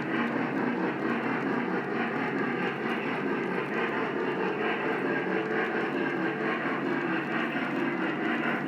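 Lionel O-gauge model train running on its track: a steady rolling rumble of wheels and motor.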